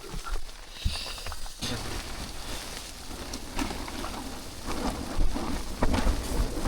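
Strong storm wind gusting against a tent from outside: a steady rushing with a low rumble that picks up about one and a half seconds in, and scattered light taps on the fabric.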